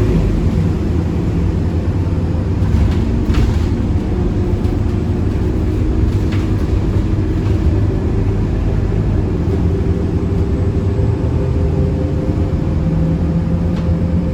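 Scania K230UB city bus heard from inside the cabin while under way: its five-cylinder diesel engine runs steadily under a dense low road rumble, with a few light rattles or clicks.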